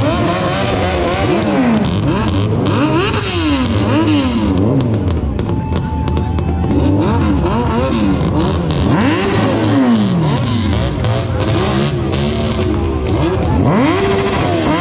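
Several motorcycle engines revving over and over, overlapping, the pitch rising and falling with each blip of the throttle.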